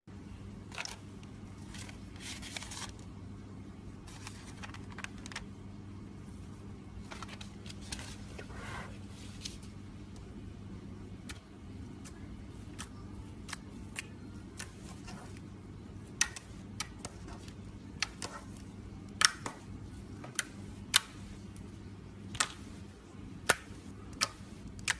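Slime being worked by hand: soft crackling and sharp popping clicks, more frequent and louder in the second half, over a steady low electrical hum.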